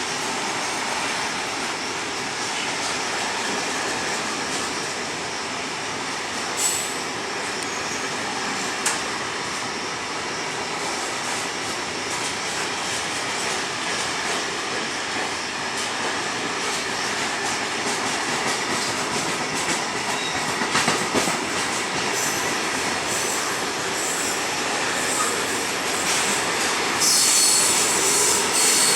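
Train rolling along the track through the station: steady wheel-on-rail noise with a few sharp clicks, and a high wheel squeal that sets in near the end.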